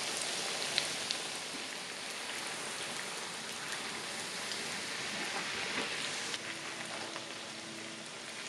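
Panko-breaded, rice-paper-wrapped king oyster mushroom pieces sizzling steadily in shallow hot oil in a frying pan, with small crackles.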